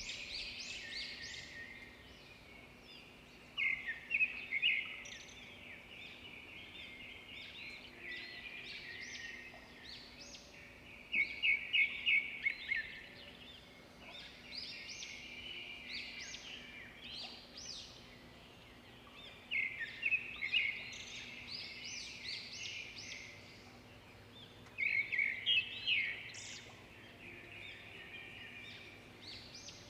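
Birds chirping and singing, with louder bursts of rapid trilled notes every several seconds over a steady chatter.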